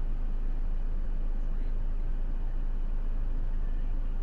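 Steady low rumble of a car's engine and road noise, even throughout with no distinct events.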